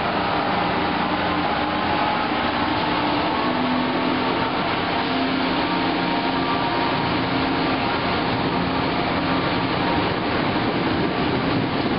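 MBTA commuter rail passenger coaches passing close by at a steady speed, with the continuous noise of steel wheels running on the rails.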